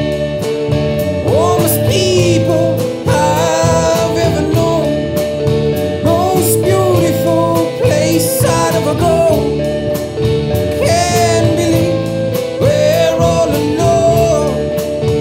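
Rock band playing: electric guitars, bass and drums, with a lead melody that bends and wavers in pitch over a steady beat.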